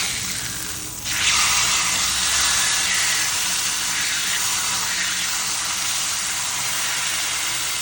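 Marinated chicken sizzling in hot butter on a tawa, a loud steady hiss that flares up suddenly about a second in.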